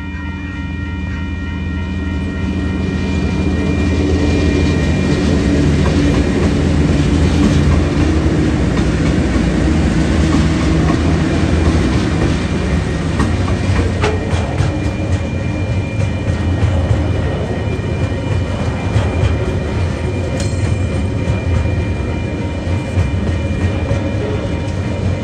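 Freight train of loaded container wagons rolling past at close range, with a continuous rumble and clatter of steel wheels on the rails and occasional sharp knocks. A low diesel engine drone and steady high tones are heard in the first half and fade as the wagons keep passing.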